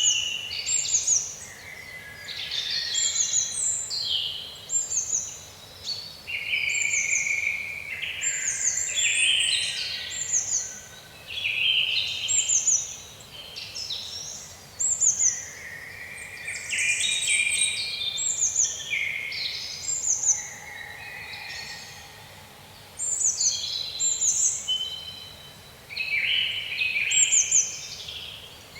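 Several songbirds singing at once in woodland, a dense run of overlapping chirps and short, quickly falling whistled notes that never stops for long.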